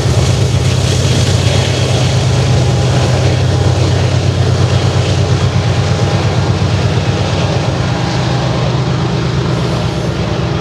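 BNSF double-stack intermodal freight train climbing a grade: a steady low rumble of diesel locomotives working under load, with the stack cars rolling on the rails, easing slightly near the end.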